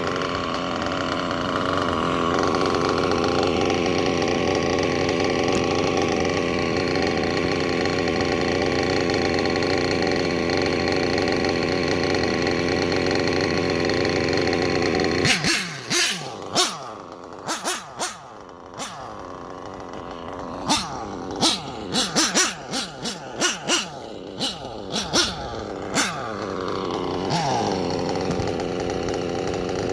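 Small nitro RC engine running at a steady high speed, then, about halfway through, breaking into a stretch of short throttle blips and sharp cracks before settling back to steadier running near the end. The engine is worn, with low compression and a cracked head.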